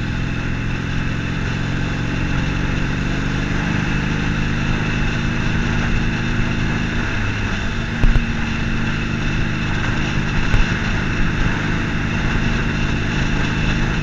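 Harley-Davidson Forty-Eight's air-cooled 1200 cc V-twin running steadily under way, with road and wind noise. About seven seconds in the engine note drops, and a brief knock follows about a second later.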